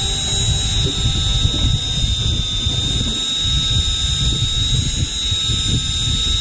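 Uneven low rumble of wind and running noise aboard a fishing boat offshore, under a steady high-pitched whine.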